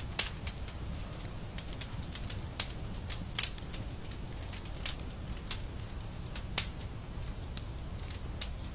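Wood fire crackling: irregular snaps and pops, a few of them louder, over a steady low rumble.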